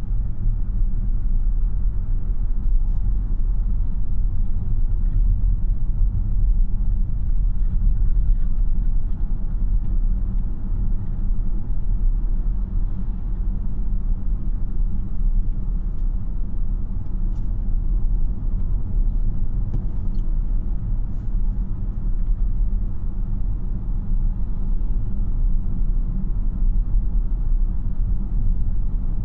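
Steady low road and tyre rumble inside the cabin of a 2026 Tesla Model Y AWD, a battery-electric car, while it drives, with no engine sound and a few faint clicks.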